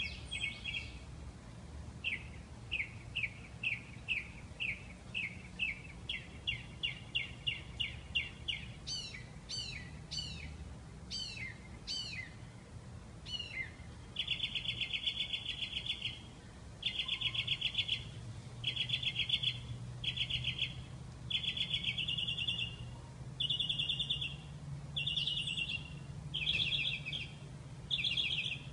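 A songbird singing: first a quickening series of short chirps, then several downward-sliding whistles, then a run of rapid trilled phrases with short pauses between them. A faint steady low hum lies underneath.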